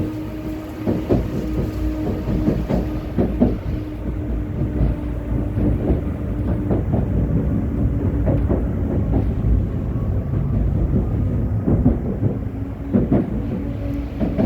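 A Vityaz-M (71-931M) low-floor tram running along the track: a steady low rumble with a constant motor hum, and irregular knocks and rattles as the wheels cross rail joints and uneven track. The hum drops away about two-thirds of the way in and comes back briefly near the end.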